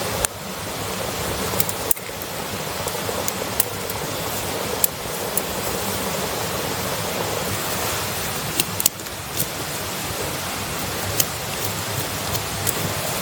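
Campfire crackling, with sharp, irregular pops and snaps every second or so over a steady rushing hiss.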